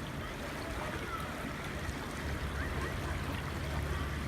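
A river flowing steadily, with a few faint, short bird chirps over it.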